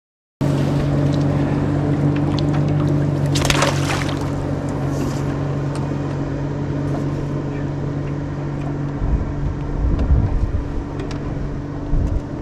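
Boat's outboard motor running at a steady pitch, cutting in abruptly about half a second in, with low rumbling near the end.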